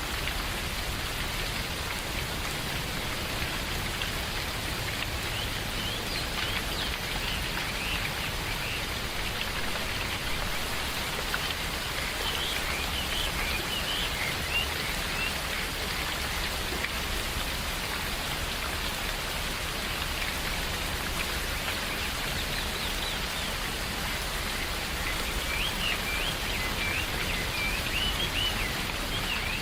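Steady rain falling in a forest, with birds chirping at intervals over it, most busily a few seconds in, again around the middle, and near the end.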